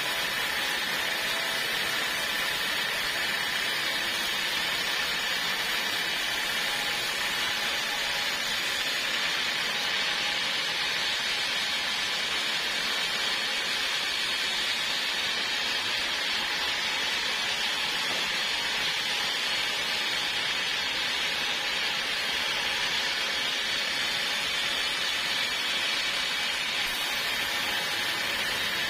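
Sawmill saw running steadily through a log of old timber, a continuous even hiss with no breaks or changes in pace.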